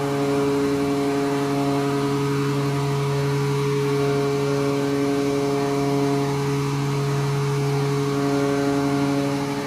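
Ship's steering gear hydraulic pumps running with a steady machinery hum of several even tones, unchanging throughout.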